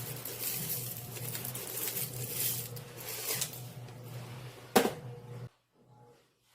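Rustling and light clattering of things being handled in a small room, with one sharp knock near the end; the sound then cuts off suddenly to near silence.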